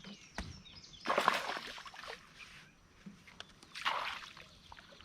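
Two short splashes of water, about a second in and again near four seconds: a hooked bass thrashing at the surface as it is brought in.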